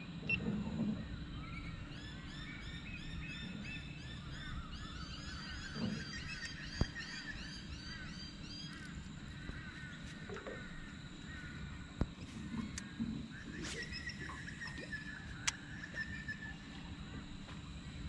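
Birds calling: a long run of rapid, repeated chirping notes that fades out about halfway, then a shorter call later, over a low background rumble with a few faint clicks.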